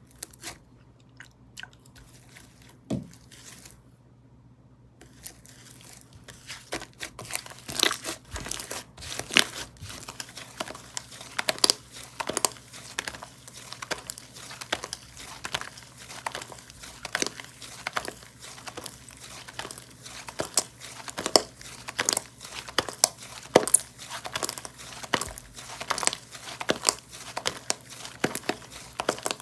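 Slime being squished and stretched by hand, making crackling, crinkling clicks. There are a few scattered clicks at first, then from about six seconds in a dense, continuous crackle.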